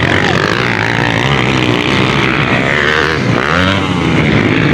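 Several motocross dirt-bike engines running at once, overlapping, their pitches rising and falling as the riders rev and shift through the race.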